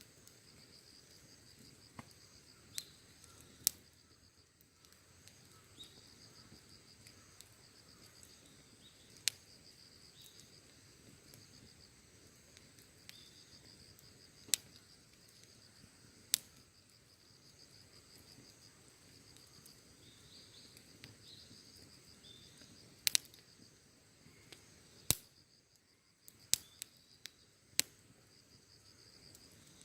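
Wood in a campfire crackling, with sharp pops every few seconds, several close together near the end. Under them runs a low hiss and the steady, pulsing chirring of insects such as crickets.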